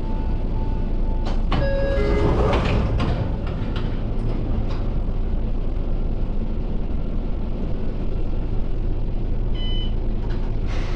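Sotetsu commuter train running on the Izumino Line: a steady low rumble of wheels on rail. About two seconds in there is a brief louder rush with a few ringing tones.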